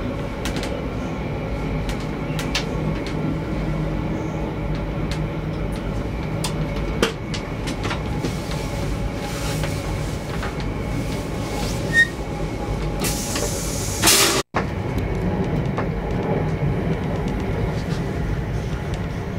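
Ride noise inside a VIA Rail Canadian passenger car under way: a steady low rumble with scattered wheel-and-rail clicks. A short rushing hiss comes about two-thirds through, then the sound cuts out for an instant.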